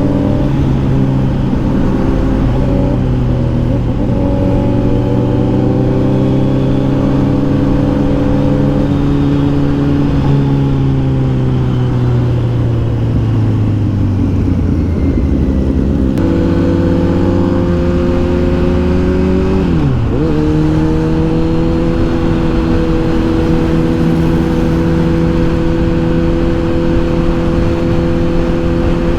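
Kawasaki Z900 inline-four engine and exhaust running at a steady cruise under riding. The engine note sags slowly about halfway through, dips sharply and comes back about twenty seconds in, then holds steady.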